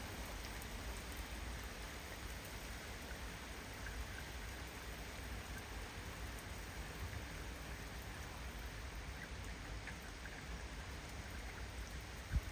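Steady rain falling, with small scattered drop ticks and a low wind rumble on the microphone. A single sharp knock just before the end.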